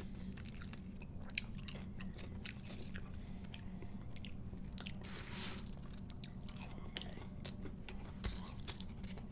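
Close-miked mouth sounds of chewing fried chicken: scattered soft clicks and small crunches. A steady low hum runs underneath, and a brief hiss comes about five seconds in.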